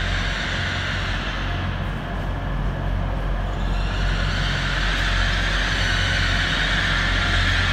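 Passenger train approaching slowly, a steady low hum with a rising rush of running noise that grows louder from about halfway through.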